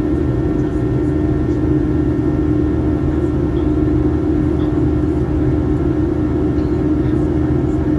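Boeing 737-800's CFM56 turbofan engines heard from inside the cabin in flight: a steady, even drone with a strong low hum.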